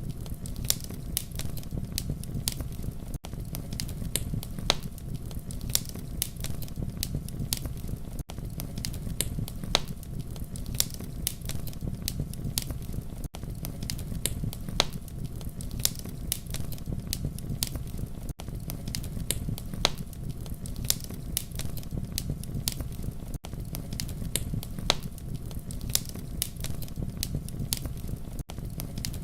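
Campfire crackling: a steady low rumble of flames with frequent sharp pops and snaps. The fire track is a short loop, with a brief dip in the sound about every five seconds.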